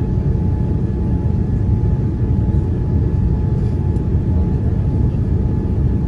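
Steady cabin rumble of a Boeing 787-9 airliner with GEnx engines, heard from inside the cabin, with a faint steady whine over it.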